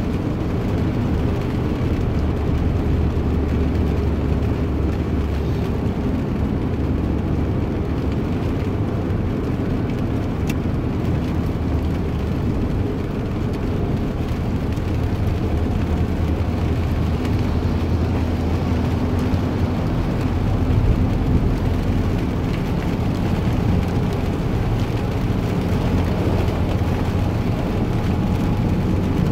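A vehicle's steady low rumble running on without a break, with faint droning tones over it.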